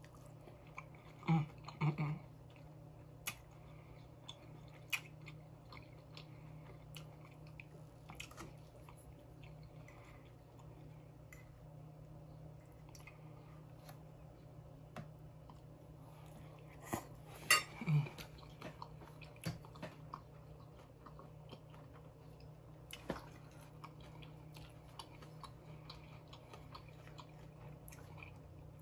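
A person chewing food close to the microphone, with soft wet mouth clicks and smacks over a faint steady low hum. There are a few louder clicks about 17 to 18 seconds in.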